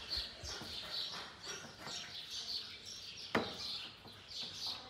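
Small birds chirping repeatedly in short high calls, with a single sharp click a little over three seconds in.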